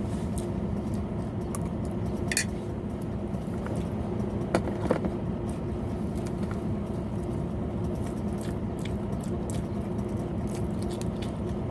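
A steady low motor hum, with a few light clicks and clatters: one about two seconds in and a pair near the middle.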